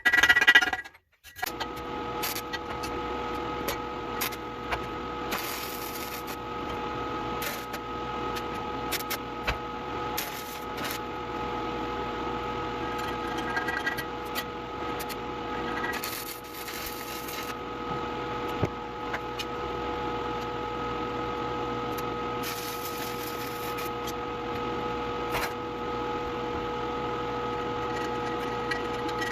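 Stick (shielded metal arc) welding on steel pipe: a steady crackle from the arc with scattered sharp pops, over a steady hum.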